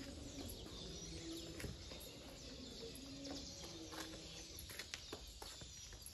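Faint chirping of several birds, with a few soft ticks.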